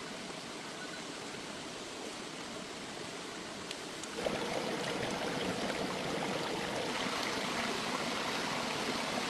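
Steady rushing noise, like running water, that grows louder about four seconds in, with a few faint crackles.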